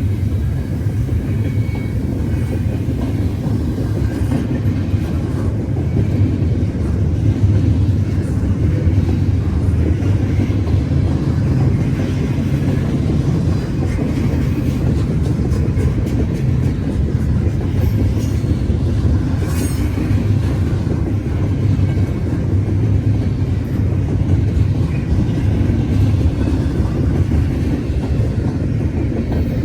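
Freight train rolling past at close range: a steady, loud low rumble of cars on the rails, with a few faint wheel clicks.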